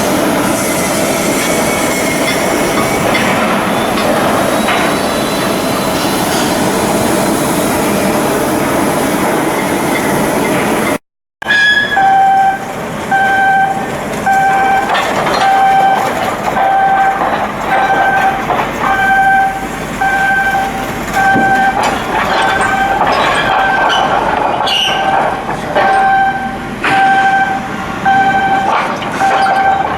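Loud, dense shipyard machinery noise. After a cut, an electronic warning beep repeats about once a second over continuing machinery noise.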